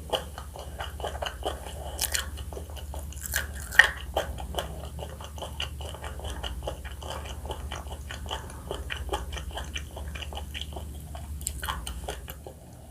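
Close-miked biting and chewing of crispy fried chicken: a dense run of crunchy snaps and crackles with wet mouth sounds, and one sharp, loud crunch about four seconds in.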